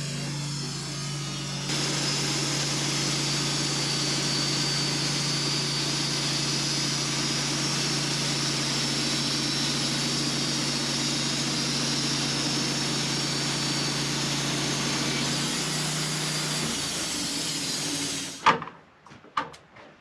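Sawmill engine running steadily while the blade cuts through a spruce log, the cutting noise strengthening about two seconds in. Near the end the engine note drops and the sound cuts off suddenly, followed by a few knocks.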